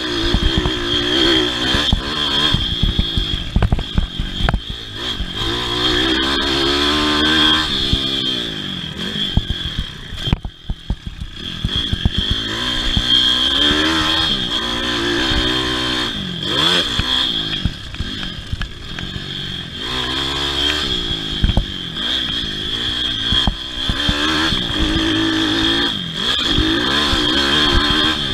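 Single-cylinder pit bike engine racing on a motocross track, revving up and down again and again as the throttle is opened and closed, with a brief drop in engine sound about ten seconds in. Clattering knocks run through it, with a steady high whine over the top.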